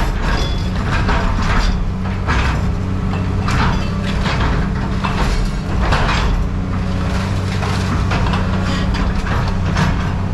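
A heavy machine's engine running steadily with a low hum, with irregular metal scraping and clanking over it as scrap is handled.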